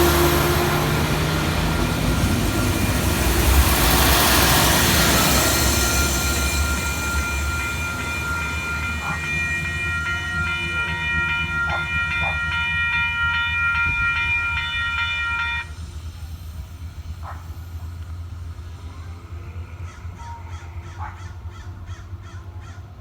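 North County Transit District Sprinter diesel railcar pulling away, with loud rushing rail noise that peaks a few seconds in and then fades. From about a third of the way in, a steady high-pitched ringing chord of several tones holds for about eight seconds and then cuts off suddenly.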